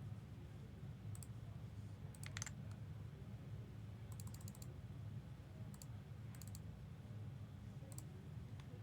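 Faint scattered clicks, some single and some in short quick clusters, over a steady low hum.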